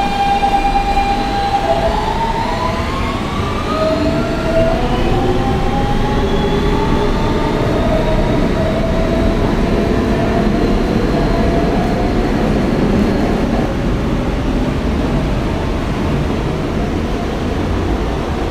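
R160B subway car with Siemens AC propulsion pulling away and accelerating. The traction motors give a whine of several tones that rises in pitch over the first dozen seconds, over a steady rumble of wheels on track, then settles as the train reaches speed.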